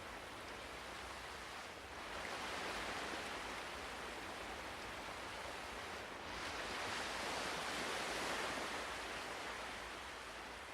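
Ocean surf: one wave washes in about two seconds in and another about six seconds in, each swelling and then easing, dying away near the end.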